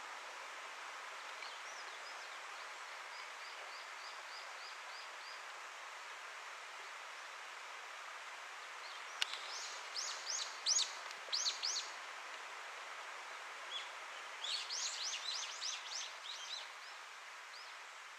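A small bird sings in quick runs of high, sweeping notes over steady outdoor background hiss. A faint run of about eight even notes comes a few seconds in, then louder bursts of rapid notes around the middle and again near the end.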